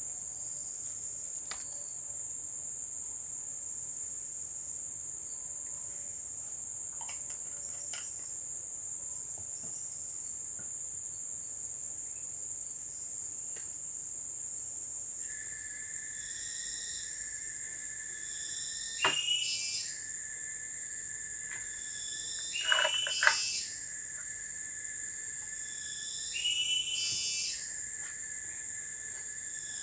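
Forest insects, crickets or cicadas, keeping up a steady high-pitched drone, with a second, lower drone joining about halfway through. In the second half a louder animal call sounds four times, about every three to four seconds.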